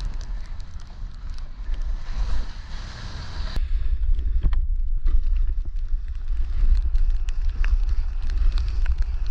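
Wind buffeting the microphone of a snowboarder's body-worn camera during a downhill run, a heavy rumble, along with the hiss of the board on snow and light clicks. The hiss thins out sharply about three and a half seconds in.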